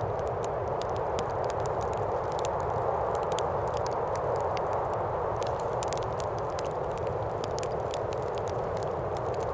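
Steady wind sound with the irregular crackling and popping of a wood fire in a fireplace.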